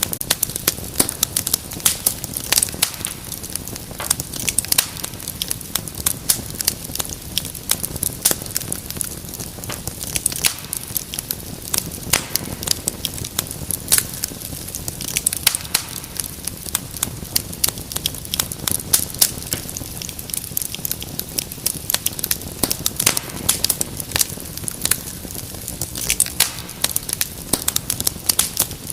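Wood fire in a fireplace crackling, with frequent irregular sharp pops and snaps over a soft steady rumble of the flames.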